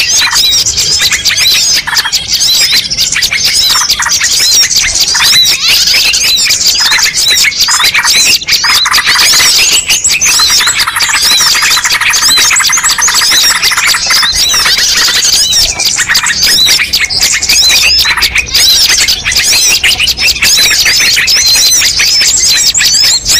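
A mixed bird-lure recording: many small songbirds chirping, trilling and squawking over one another in a dense, loud, unbroken chorus. It thickens with lower calls about ten seconds in.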